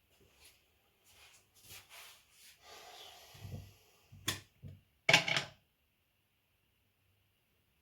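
Soft rustling and handling of parts, then two sharp knocks a second apart, the second a louder short clatter; after that it falls quiet.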